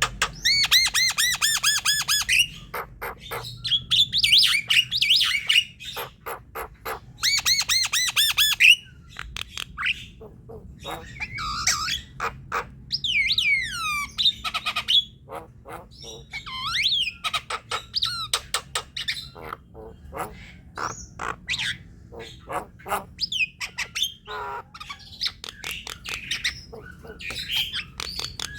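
Javan myna (jalak kebo) singing in a dense, varied chatter: fast trains of rapidly repeated notes, harsh squawks, and gliding whistles. It is a lure song (pancingan) used to set a silent or lazy captive myna singing.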